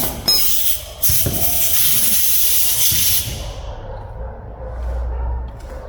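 A steady hiss, like an aerosol spray or escaping compressed air, starts about a second in, lasts about two seconds, then fades out. A short click comes just before it.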